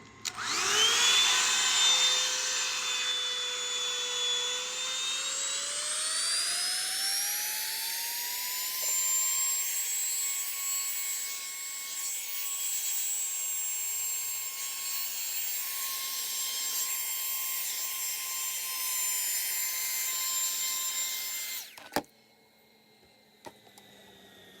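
Revlon hair dryer brush blowing air: its motor whine climbs in pitch over a few seconds, holds steady, then cuts off suddenly with a click as it is switched off near the end.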